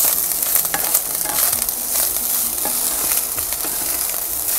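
Fried rice with diced luncheon meat and mixed vegetables sizzling in a non-stick wok as a spatula stirs and turns it, with scattered scrapes and taps of the spatula against the pan.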